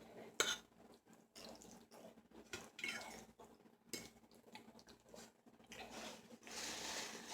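Quiet eating sounds: a fork clicking against a plate in short, scattered taps, with wet mouth sounds of eating spaghetti and a longer wet hiss near the end.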